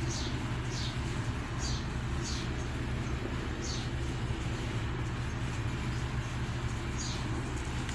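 A small bird chirping: several short, high chirps that fall in pitch, at irregular intervals, over a steady low hum.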